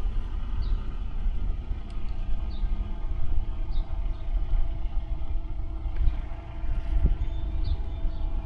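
Steady low engine rumble from a CMC 72HD aerial lift running, with faint short high chirps repeating every second or so.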